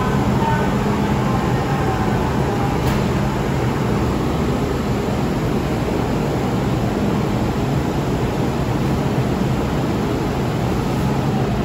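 Cabin noise of an MTR M-train electric multiple unit running: a steady rail rumble and hiss, with a faint traction-motor whine falling in pitch and fading out in the first few seconds.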